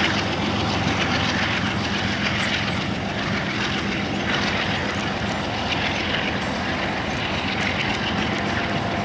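Freight train rolling past: a steady rush of steel wheels on rail as boxcars go by, over a low steady drone.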